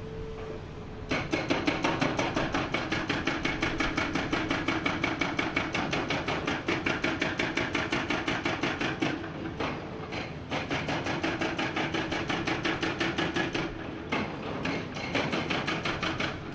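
Hydraulic breaker hammer on a Komatsu PC490 excavator hammering rock: a fast, even run of blows that starts about a second in, breaks off briefly in the middle, then resumes, and comes in short bursts near the end, over the excavator's engine.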